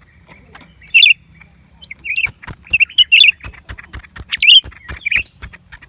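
Blue-winged leafbird calling: short, sharp, loud notes pitched high, one about a second in and then a quick run of calls from about two seconds on, with faint ticking between them.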